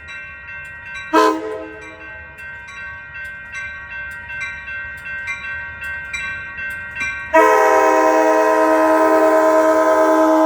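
Amtrak Surfliner locomotive's air horn: a short blast about a second in, then a bell ringing about twice a second, then a long, loud horn blast from about seven seconds in.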